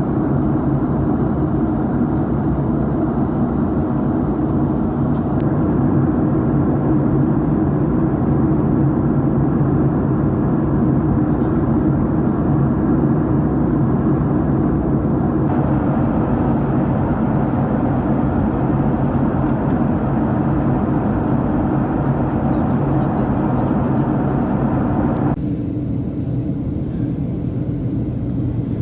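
Boeing 737-700 cabin noise in flight: a steady rumble and rush of engine and airflow noise with a thin high whine over it. The sound changes abruptly about halfway through, and again near the end, where the hiss drops away and it turns duller.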